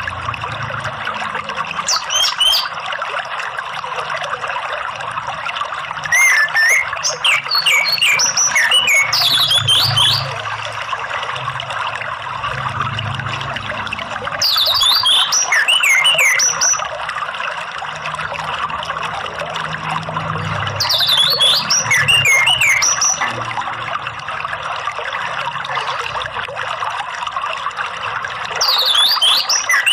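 Orange-headed thrush singing in several bouts of high whistled phrases that slide downward, each bout a few seconds long with pauses between, over the steady rush of running water.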